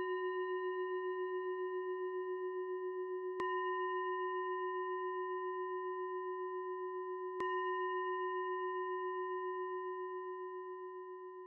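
A meditation bell struck twice, about three and a half and seven and a half seconds in, ringing on from an earlier strike with a steady low tone and a few higher overtones that pulse slightly as they ring, fading near the end.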